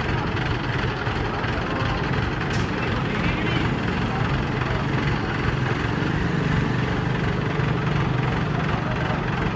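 Heavy diesel engine of an excavator running steadily at low speed, with a deep even hum.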